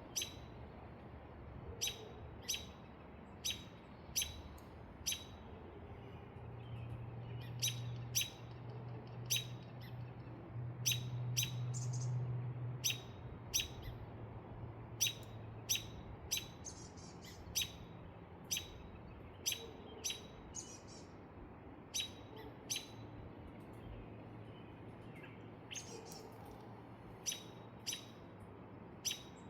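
A single bird repeating a short, sharp chirp, about once or twice a second, without pause. Under it a faint low drone swells for several seconds in the first half and then fades.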